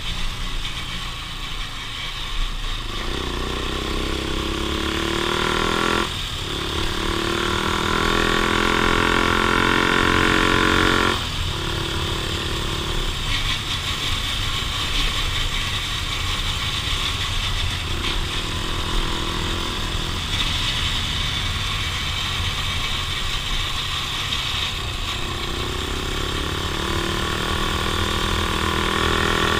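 Off-road vehicle engine accelerating on a trail, its pitch climbing in long runs. The pitch drops off sharply about six and eleven seconds in, as at a gear change or a lift of the throttle, then climbs again near the end.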